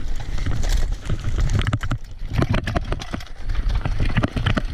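Bicycle jolting over rocks and bumps on a rough dirt trail, its frame and parts clattering in an irregular run of sharp knocks.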